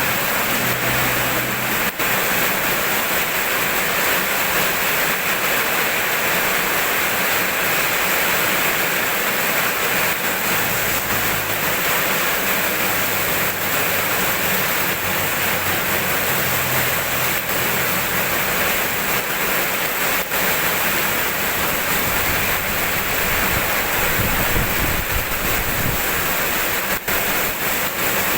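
Steady heavy rain, an even unbroken hiss, with faint low rumbles coming and going.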